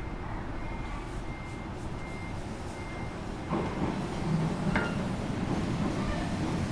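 Steady low hum inside a standing JR Kyushu 305 series electric train, with a few faint high beeps. From about halfway through, a rising rail rumble and a sharp click as another train comes in alongside.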